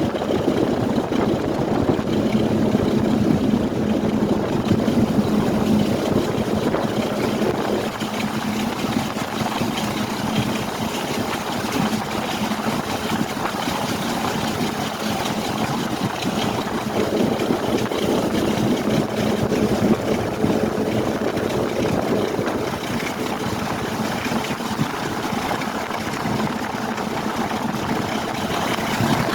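A train running: a steady mechanical rumble with a constant low hum, a little louder for the first few seconds.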